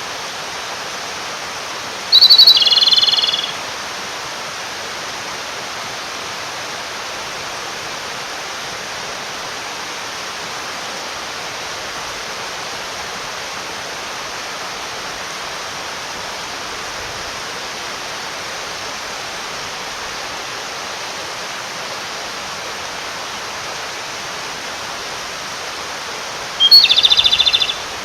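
Japanese robin (komadori) singing two song phrases, about two seconds in and near the end: each a short high note followed by a rapid rattling trill that drops in pitch. A male singing to call a female, over the steady rush of a mountain stream.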